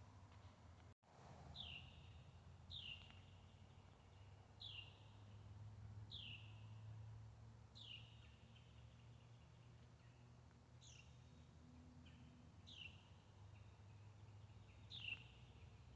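Faint bird calls: a short note sliding downward in pitch, repeated about eight times, one every one to two seconds, over a low steady rumble of outdoor background noise.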